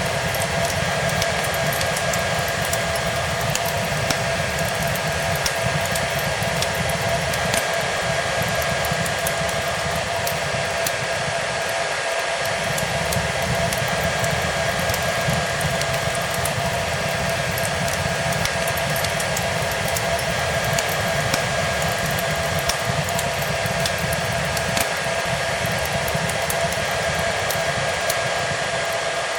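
Hair dryer running steadily, a constant whooshing rush with a fixed whine in it, mixed with scattered faint crackles of a wood fire.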